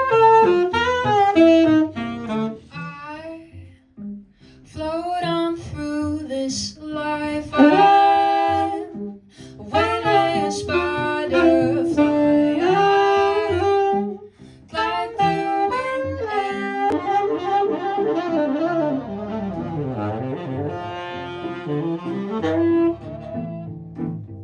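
Band music led by a saxophone playing flowing melodic phrases over bass notes, with short breaks between phrases.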